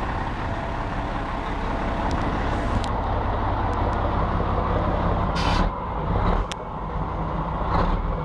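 Scania 112 truck's inline-six diesel engine running steadily under way, heard from inside the cab. About five and a half seconds in comes a short hiss of air, and the engine briefly drops in loudness.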